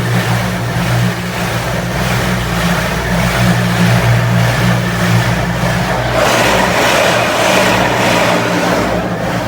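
Tunnel car wash equipment running around a car, heard from inside it: a steady low machinery hum under a hiss that grows louder about six seconds in.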